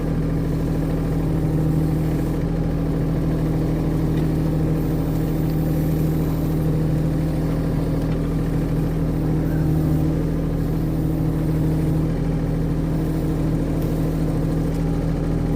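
Mini excavator engine running steadily at an even speed while the machine works.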